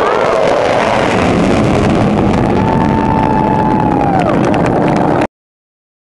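Fighter jets flying low overhead: a loud, steady jet roar, with a few shouts from the crowd over it, cutting off suddenly about five seconds in.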